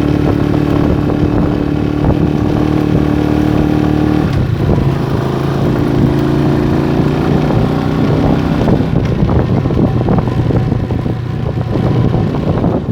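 Motorstar Star X 125 motorcycle's 125 cc engine running while riding. Its note drops about four seconds in, as at a gear change, then climbs gradually.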